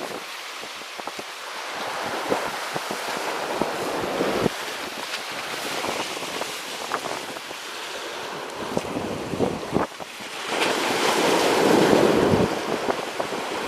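Strong wind buffeting the microphone over waves washing in, swelling loudest about three-quarters of the way through, with a few faint ticks.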